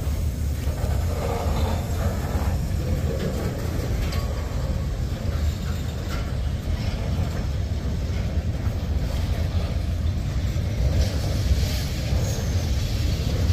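Freight cars of a Norfolk Southern manifest train rolling slowly past: a steady low rumble with scattered faint clicks and clanks from wheels and couplers.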